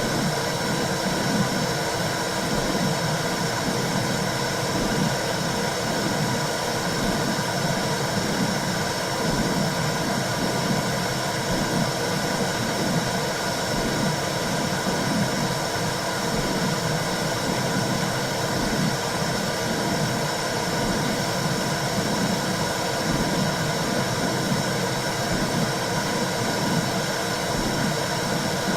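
Womb sound for calming a baby: a steady whooshing noise with a slow, regular pulsing in the low range.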